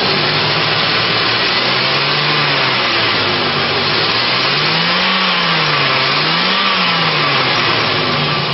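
2005 Chevrolet Equinox's 3.4-liter V6 running and being revved three times, each rev rising and falling back to idle, the last two higher than the first. A steady rushing noise runs under it.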